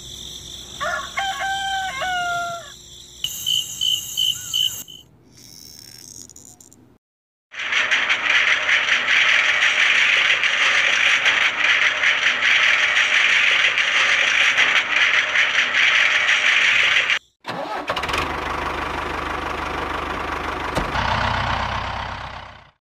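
A rooster crows once near the start, followed by a few short high pips. Then a loud steady rushing noise runs for about ten seconds, stops abruptly, and gives way to a quieter, lower steady running noise.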